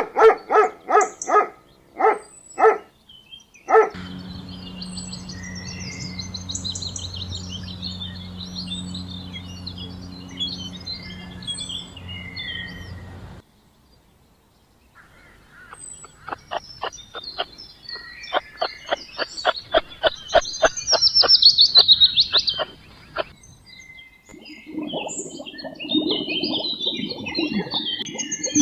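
A string of separate wild-animal recordings: a series of short pitched calls at first, then birds chirping over a low steady hum, and after a brief silence a fast run of sharp rattling notes with high birdsong over it, then a lower call near the end.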